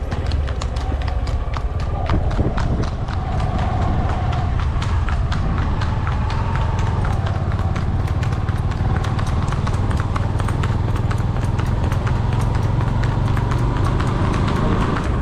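Horse's hooves clip-clopping in a long run of sharp beats, over a steady low rumble.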